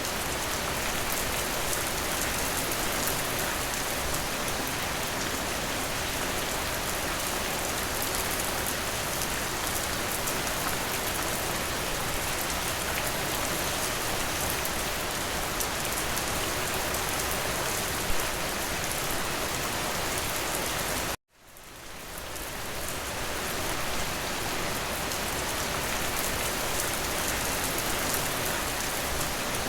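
Steady, even rain falling, with one sharper drop about 18 seconds in. About two-thirds through, the rain cuts out abruptly to near silence, then fades back in over a second or two.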